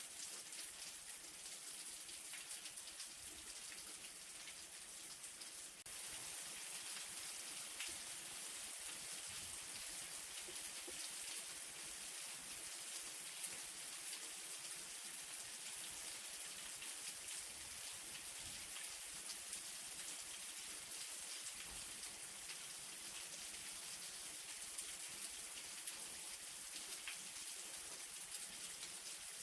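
Light rain falling steadily, a soft hiss dotted with the pattering ticks of individual drops, growing slightly louder about six seconds in.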